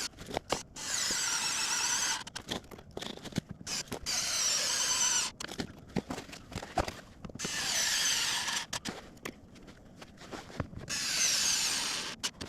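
Electric screwdriver driving the screws in around the edge of a car door panel, running four times for about a second and a half each, with small clicks of handling in between.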